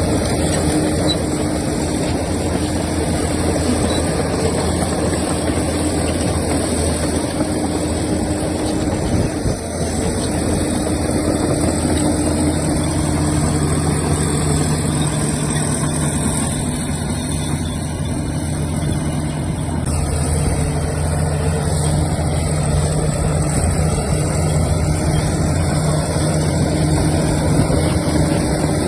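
Heavy diesel earthmoving machinery running steadily, a deep engine hum with a brief dip about ten seconds in and a change in engine note a few seconds later.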